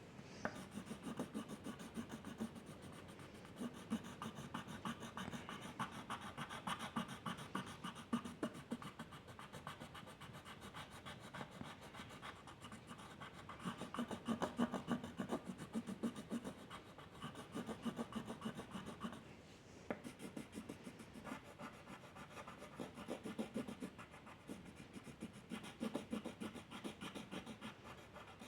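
Rapid back-and-forth strokes of a drawing tool scratching on paper, coming in bursts of several seconds with a short pause a little past the middle.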